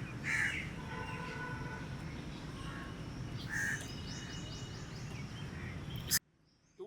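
Outdoor background noise with a bird calling twice, once near the start and again about three and a half seconds in. The noise cuts off abruptly about six seconds in with a click.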